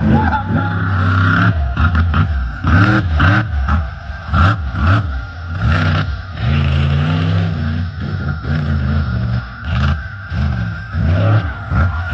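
Monster truck engine revving hard, its pitch rising and falling over and over through the run.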